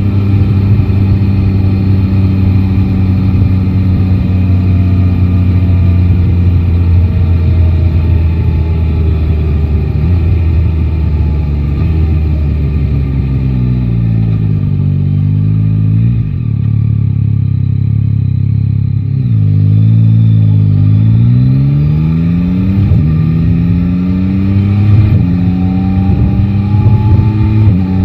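Yamaha Tracer 9 GT's inline three-cylinder engine running under way. It holds a steady note at first, falls in pitch as the bike slows about halfway through, then rises again in steps as it pulls away through the gears.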